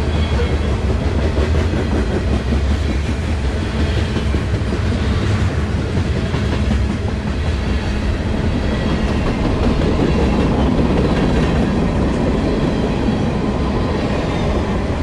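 CSX manifest freight train rolling past close by: a steady, loud rumble of cars on the rails with clickety-clack over the joints.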